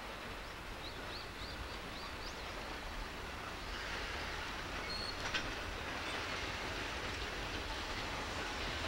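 Freight wagons rolling through a rail yard during shunting: a steady rumble of wheels on rail that grows louder from about four seconds in, with a brief high wheel squeal about five seconds in. A few short high chirps come near the start.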